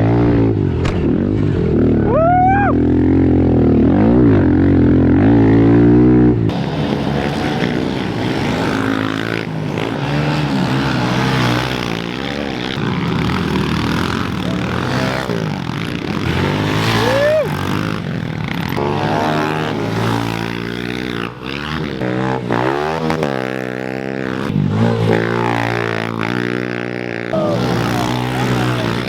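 Several small single-cylinder four-stroke pit bike engines (110cc Kawasaki KLX110s and Honda CRF110s) racing together, revving up and dropping off over and over as they shift and brake. About six seconds in, the sound changes abruptly to a brighter, fuller tone.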